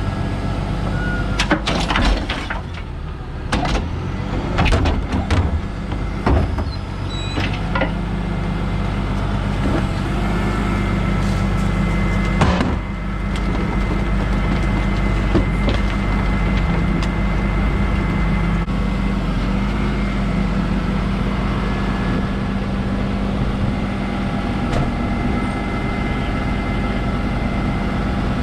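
Rear-loader garbage truck's engine running steadily while a bulk waste bin is handled, with a run of clanks and knocks in the first several seconds and a louder bang about twelve seconds in, then an even drone with a held higher whine.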